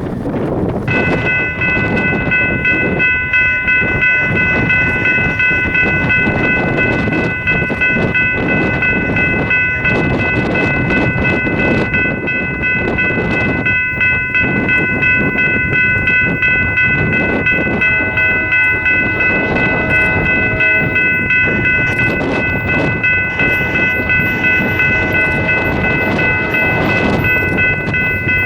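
A freight train rolling past, its railcars clattering over the rail joints, with a steady high-pitched squeal that starts about a second in and holds throughout.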